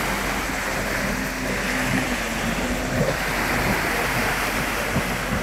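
Jet ski running on the water: a steady rush of water and wind over a low engine hum.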